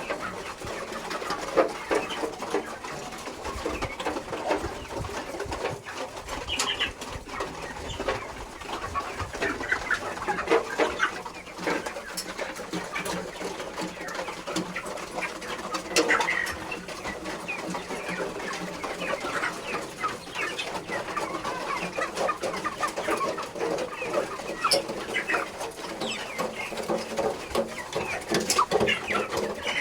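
A flock of grown broiler chickens clucking and calling, many short calls overlapping without a break.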